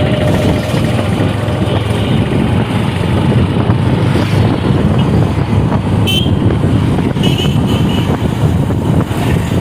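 Motorcycle on the move: steady engine and road noise with wind rush on the microphone. A short high tone sounds about six seconds in and again about a second later.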